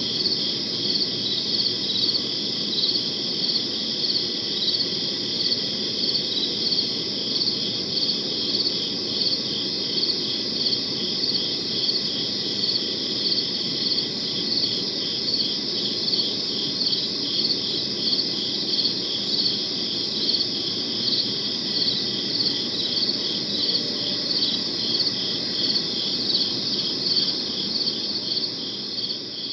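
Crickets chirping in a steady, evenly repeated rhythm over a soft low background hiss, the sound fading near the end.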